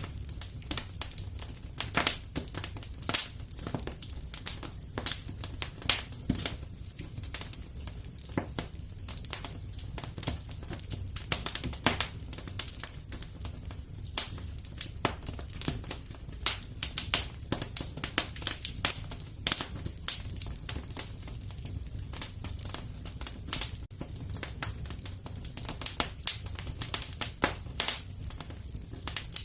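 Wood fire crackling in a fireplace: dense, irregular snaps and pops over a steady low rumble of burning.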